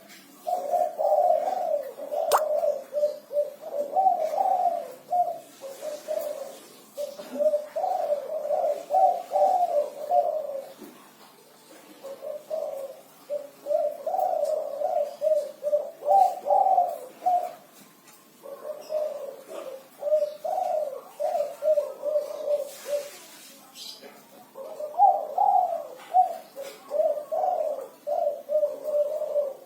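Spotted dove (derkuku) cooing: five phrases of low, rhythmic coos, each a few seconds long with short pauses between them. This is the steady song type that keepers call 'kuk 5'.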